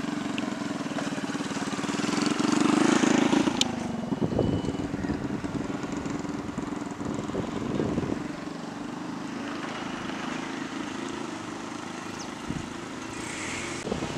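Road traffic: a motor vehicle's engine passes, growing louder to a peak about three seconds in and then fading, followed by fainter passing engines.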